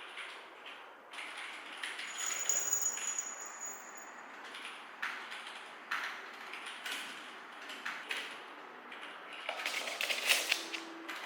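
Kitchen and food-preparation handling sounds: scattered light clicks and knocks, with a thin high tone for a couple of seconds early on and a louder rustling clatter near the end.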